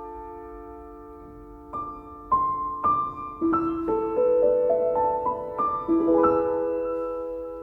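Slow, gentle solo piano music: single notes and chords struck one after another and left to ring, a quiet held chord at the start, then a rising run of notes through the middle, fading toward the end.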